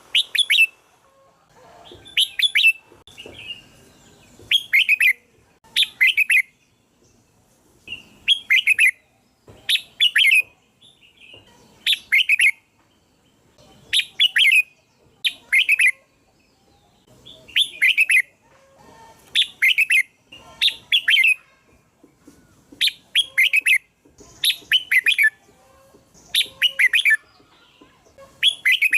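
Red-whiskered bulbul singing: short, loud, repeated song phrases, about one every one to two seconds.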